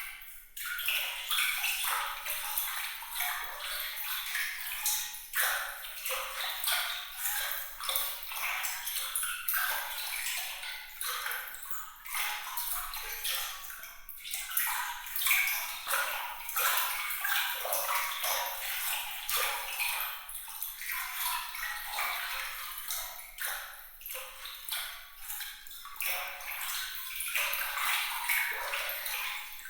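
Continuous glittering water sound: a dense trickle of tiny splashes and drips with bright, tinkling pings, all high and thin with no low rumble.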